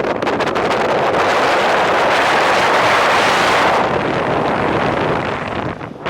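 Loud wind rushing and buffeting over the microphone. It swells about three seconds in and drops away near the end.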